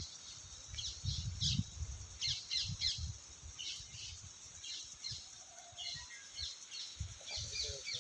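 Birds chirping: many short, quick, high calls come again and again, some in rapid runs, over faint low thumps.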